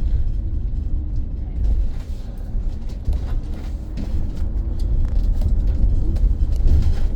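Steady low rumble inside a moving BYD BD11 battery-electric double-decker bus, mostly road and tyre noise carried through the body, with no engine note.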